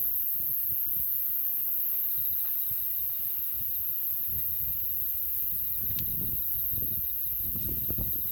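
A wood campfire burning with an uneven low crackle, and one sharp pop about six seconds in.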